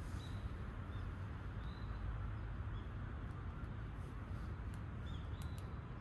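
Birds chirping in short, high calls every second or so over a steady low rumble, with a few light clicks near the end.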